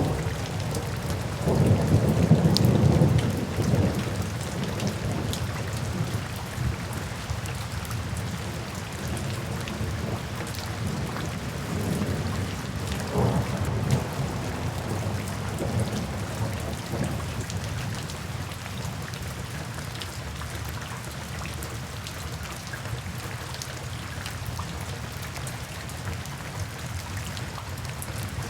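Steady heavy rain with thunder rumbling: a loud low roll about two seconds in, another about thirteen seconds in, and the rumble fading away in the later part while the rain keeps falling.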